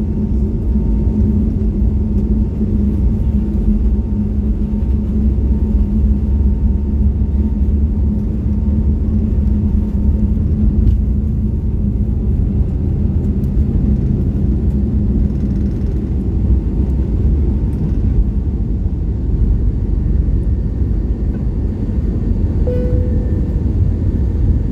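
Airbus A320 cabin noise: a steady low rumble from the jet engines and airframe, with a hum over it that fades out about two-thirds of the way through.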